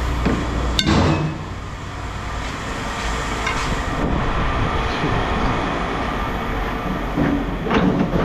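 Scrap metal pieces knocking and clanking as they are handled: one sharp clank about a second in and a few more near the end, over a steady low rumble.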